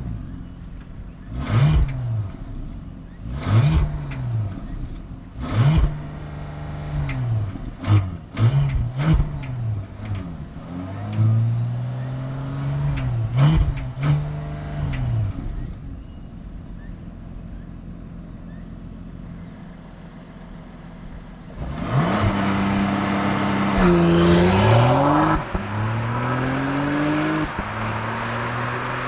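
The 2022 Bentley Flying Spur Hybrid's 2.9-litre twin-turbo V6 is blipped in a series of quick revs, each rising and falling, for the first half. After a quieter pause it is put under full acceleration: a louder run with the pitch climbing, dropping at two upshifts, and climbing again.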